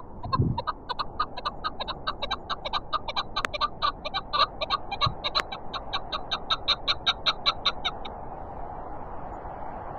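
Chukar partridge calling a fast, even run of chuck notes, about five a second, that stops abruptly about eight seconds in. Steady wind noise runs underneath, with a low thump near the start.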